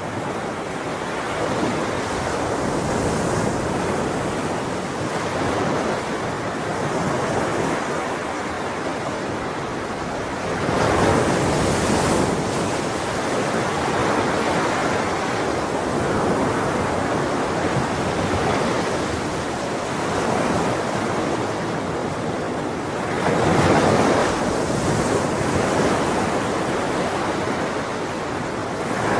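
Ocean waves washing onto shore in a continuous roar of surf, swelling as a wave breaks about eleven seconds in, again near the middle of the second half, and once more near the end.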